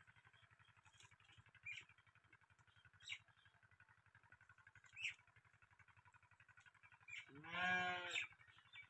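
Antique diesel engine driving a tube well pump, chugging steadily with a rapid, even beat. About three-quarters of the way through, a farm animal bleats once for about a second, louder than the engine, and birds chirp briefly a few times.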